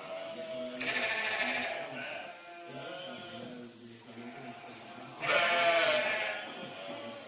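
Young calves bawling for their mothers, the sound of calves kept apart from their cows. Two loud, drawn-out calls come about a second in and again about five seconds in, with fainter calls between.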